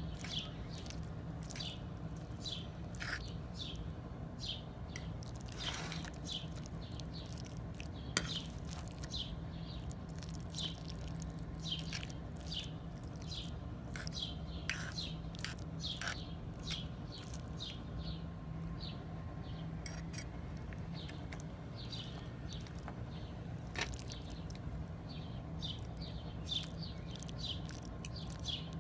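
Small birds chirping in quick, short notes again and again, over a steady low hum, with a couple of sharp clicks.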